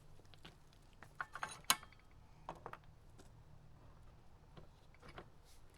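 Adjustable wrench clinking against metal while working a 12 mm keeper nut: a handful of separate clicks and taps, the sharpest a ringing metal clink a little under two seconds in.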